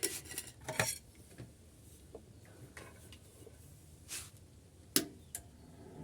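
A few light knocks and clicks, as of objects being handled and set down: a cluster in the first second, a softer knock about four seconds in, and a sharp click about five seconds in.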